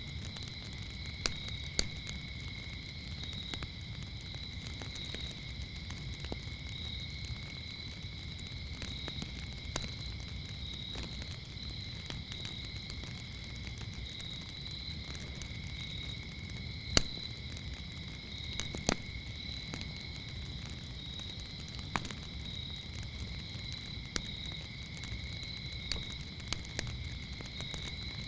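Wood fire crackling with a low rumble and scattered sharp pops, the loudest two coming about two-thirds of the way in. Crickets chirp steadily at a high pitch behind it.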